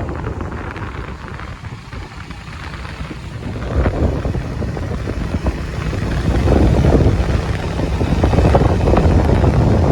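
Wind buffeting the microphone on a moving motorcycle, a rough low rumble that grows louder about six seconds in.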